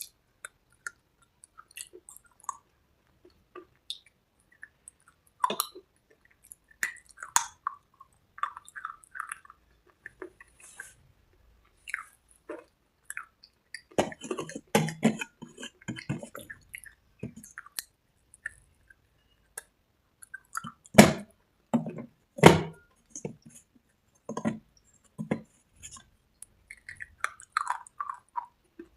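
Close-miked crunching and chewing of dry cubes and red slate paste: irregular crisp crunches and bites, with a busy stretch about halfway and two loudest bites about three-quarters of the way through.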